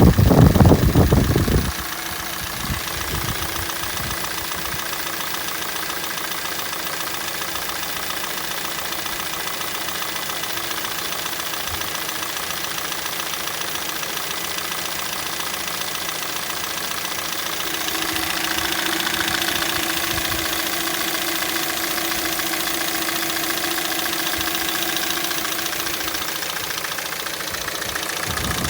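Hyundai/Kia G4NA 2.0-litre four-cylinder petrol engine idling with a knock that the owner says is there on a cold start and goes away as the engine warms up. A loud low rumble in the first couple of seconds gives way to a steady idle, which gets a little louder about two-thirds of the way through.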